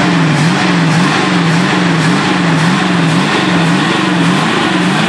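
Pontiac LeMans V8 engine running at a loud, lumpy idle, its note rising and falling in an even rhythm a little under twice a second.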